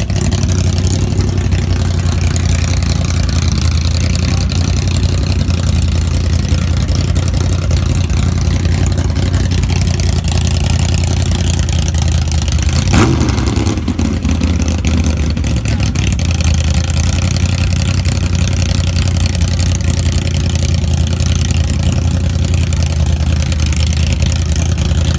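Hot rod's V8 engine idling with a steady low rumble, given one quick blip of the throttle about halfway through, its revs falling back over a second or so.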